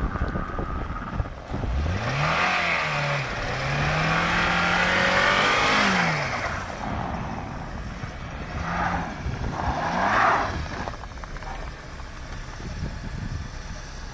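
2003 Honda CR-V's four-cylinder engine revving up, holding for a few seconds and dropping back. A second, shorter rev follows about two-thirds of the way in. Wind buffets the microphone throughout.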